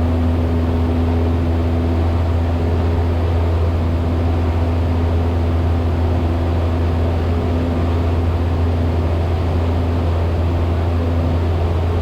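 Cessna 172's engine and propeller droning steadily in cruise, heard inside the cabin: a constant low hum with a few steady tones above it and an even rush of air noise.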